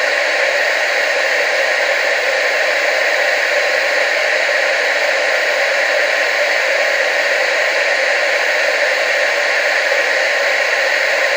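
Television static: a steady, unbroken hiss with no pulses or changes, thin in the bass and strongest in the mid range.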